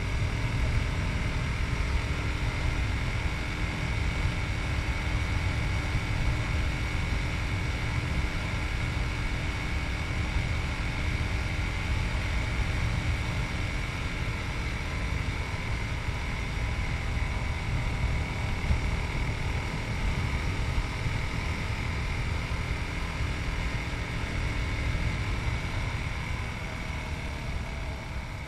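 Yamaha MT-03's 660 cc single-cylinder engine running steadily at cruising speed, with heavy wind rumble on the chest-mounted camera's microphone. Near the end the engine note drops as the bike slows.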